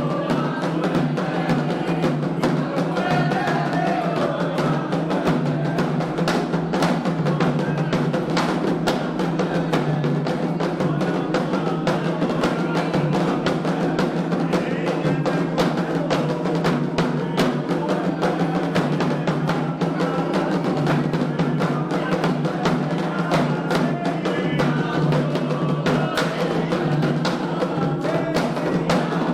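Candomblé ritual drumming: atabaque hand drums and a struck bell keep up a fast, steady rhythm, with voices singing over it.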